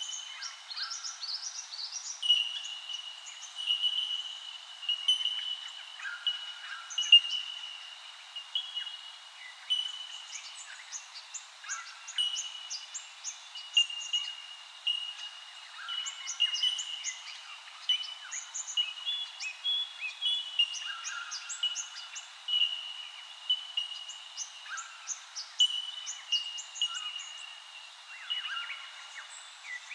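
A dense chorus of many birds calling together: short whistled notes and quick chirps overlap continuously, with no pause.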